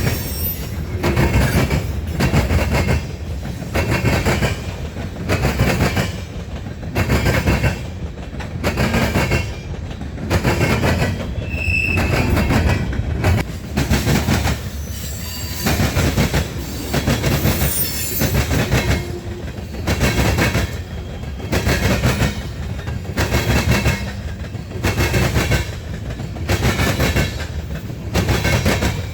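A train rolling past, its wheels clattering over the rail joints in a steady rhythm of about one beat a second, with a brief high squeal about twelve seconds in.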